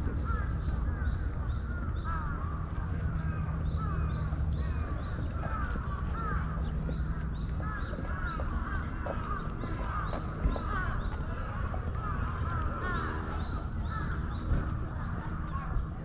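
Many birds calling in short, overlapping calls throughout, over a steady low hum of the city.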